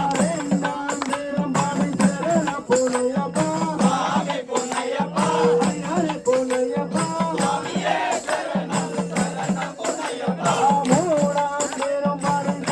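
Devotional bhajan singing with rhythmic rattling hand percussion keeping a fast, steady beat under the melody.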